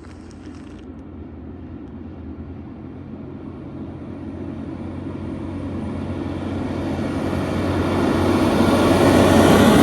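Fire truck's diesel engine approaching on the road, growing steadily louder and passing close near the end, with no siren since it is driving non-priority.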